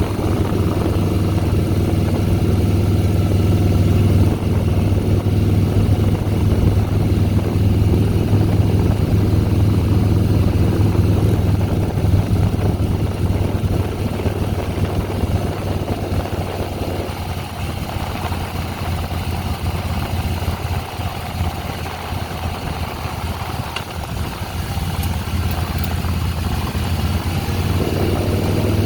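Harley-Davidson Softail Deluxe's air-cooled V-twin engine running steadily under load on the climb, easing off for about ten seconds past the middle and pulling harder again near the end.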